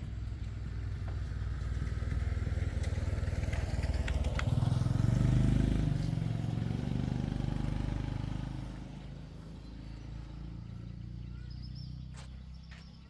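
A motorcycle engine that grows louder to a peak about halfway through and then fades away by about nine seconds in, the rise and fall of a motorbike passing by.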